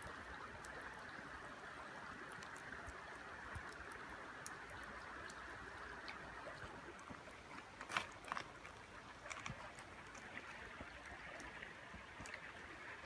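Steady rushing of river water, with scattered small crackles and pops from the campfire, one sharper pop about eight seconds in.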